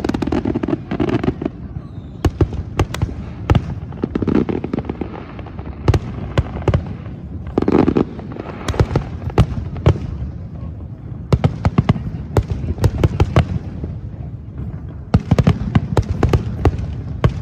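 Aerial fireworks going off in a dense, irregular barrage of sharp cracks and bangs over a continuous low rumble, with thicker clusters of crackling about 9 s and 15 s in.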